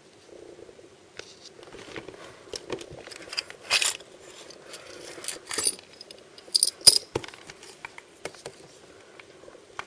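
Hands opening and handling blind-bag and blind-box packaging: rustling, crinkling and irregular sharp clicks and taps, with the loudest bursts about 4 seconds and 7 seconds in.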